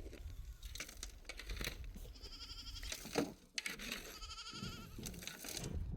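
Livestock bleating twice, each call quavering and lasting under a second, one about two seconds in and the other about four seconds in.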